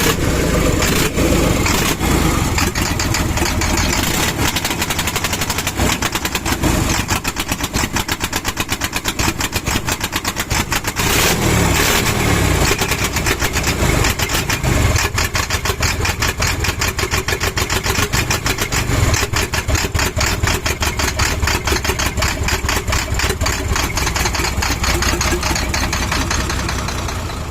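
Isuzu 6HK1 inline-six diesel being cranked over at length by its starter, a fast, even pulsing that runs on without a clear catch. The engine is hard to start.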